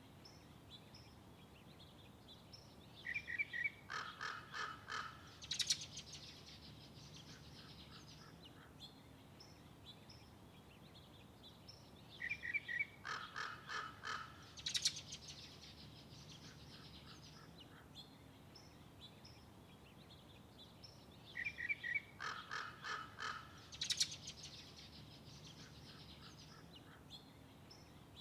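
A songbird sings the same short song three times, about every nine seconds. Each song opens with a couple of clear notes, runs into a quick series of notes and ends on a sharp high note. Faint chirps from other birds come in between.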